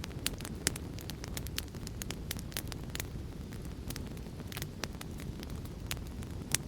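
Wood fire crackling: frequent sharp irregular pops and snaps over a steady low rumble of flames.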